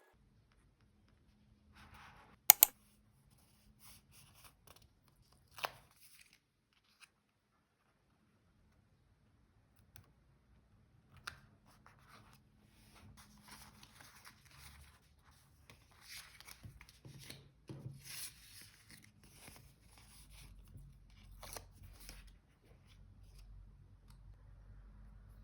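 Paper crafting at a desk: paper being handled, cut and peeled, with soft rustling and crinkling through the second half. A sharp double click about two and a half seconds in is the loudest sound, and a few lighter taps follow.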